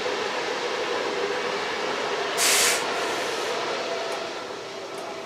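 Interior running noise of a Z 26500 (TER 2N NG) double-deck electric multiple unit under way: a steady rush with a faint hum. About halfway through comes a short, sharp hiss lasting under half a second.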